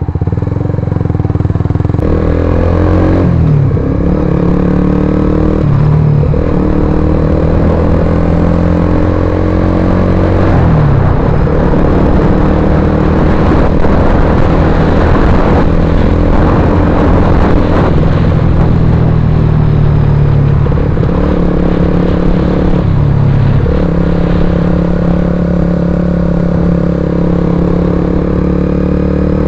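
Suzuki GSX-R150's single-cylinder engine running loud through an aftermarket Akrapovic-style carbon slip-on silencer. The exhaust note climbs steadily and drops back sharply several times.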